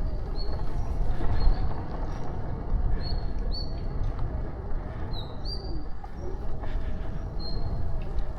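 Wind rumbling on the microphone and tyre noise from a moving bicycle, with birds chirping: short high notes repeating throughout, a few of them rising.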